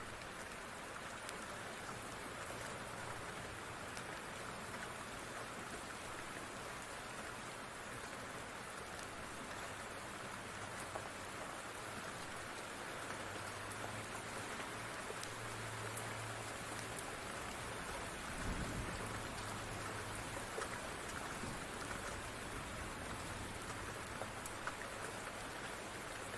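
Steady rain falling, with scattered small crackles from a wood fire and a short low rumble about two-thirds of the way through.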